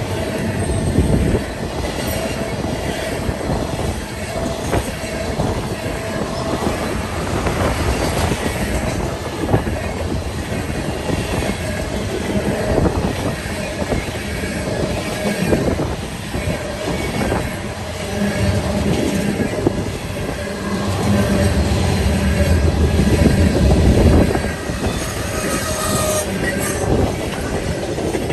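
A train rolling past close by, its wheels clicking over rail joints and squealing against the rails. There is a deeper rumble in the last third that grows louder before easing off near the end.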